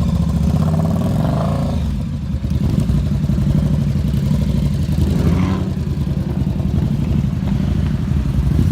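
Kawasaki Ninja 300 parallel-twin engine running at riding speed through an aftermarket MGP Growler exhaust, heard from the rider's helmet mic, its pitch rising briefly twice as it revs.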